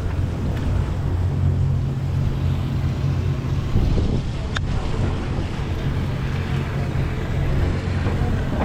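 Steady low drone of a sportfishing boat's engine, with wind and water noise over the deck. A single sharp click about halfway through.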